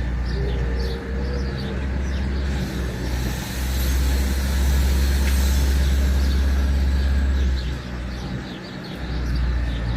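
Small birds chirping faintly over a steady low outdoor rumble. A rush of noise swells a few seconds in and fades again near the end, like a vehicle passing.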